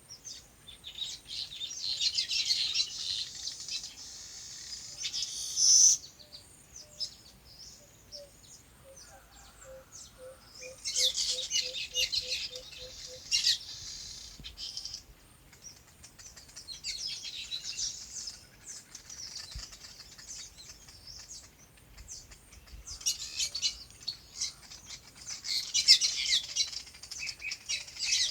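Small birds chirping and twittering in busy bursts of rapid high notes, with short lulls between them. Around ten seconds in, a run of about a dozen lower, evenly spaced notes comes at roughly two a second.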